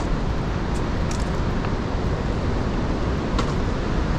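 Steady roar of the Iguazu Falls, an even rushing noise heaviest in the low end, with a few faint ticks.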